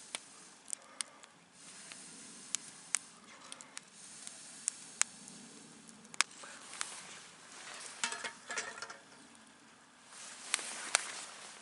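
Wood campfire crackling: sharp, irregular pops over a soft hiss, with a quick flurry of crackles about eight seconds in.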